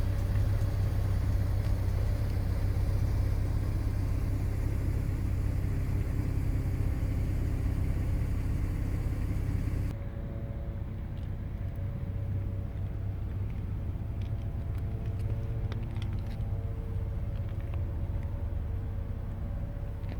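A 2020 Toyota Avalon TRD's 3.5-litre V6 running with a steady low rumble. About halfway through, the sound changes abruptly: the hiss drops away and a steadier hum remains.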